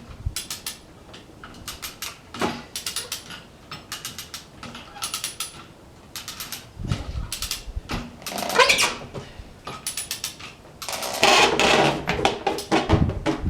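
Metal ratchet of a hand-pulled winch clicking in short bursts as it is worked against a heavy load, with a rising creak about halfway through. A louder, denser run of clicking and clatter comes near the end.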